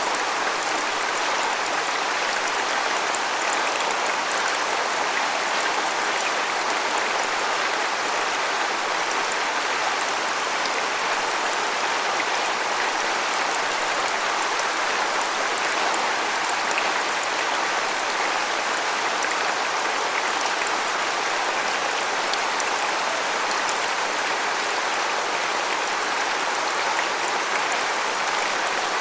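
Waterfall: a steady, even hiss of falling water that holds at the same level throughout, with no breaks or separate sounds.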